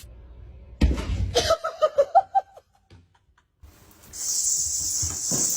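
A person laughing in a quick string of pulses for under two seconds, then, after a short pause, a steady high hiss starts and carries on.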